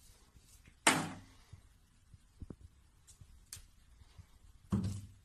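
Two dull thuds, a louder one about a second in and another near the end, with a few faint ticks between them.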